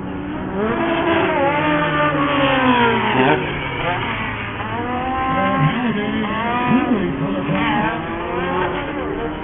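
Engines of several off-road race buggies revving hard, their pitch rising and falling over and over as the drivers accelerate, lift and shift around the track.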